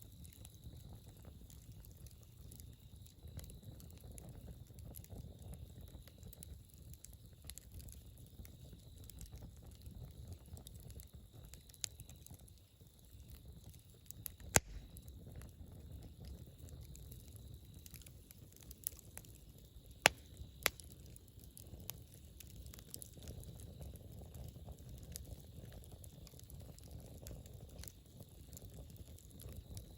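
Wood campfire burning: a low rumble of flames with steady light crackling, and a few sharp loud pops, the loudest about halfway through and two close together around twenty seconds in.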